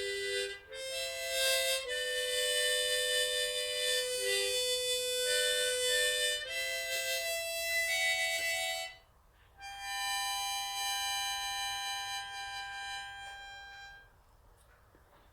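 Harmonica playing the closing phrase of a slow melody in held, chord-like notes, with a brief break about nine seconds in, then a long final held chord that fades out about fourteen seconds in.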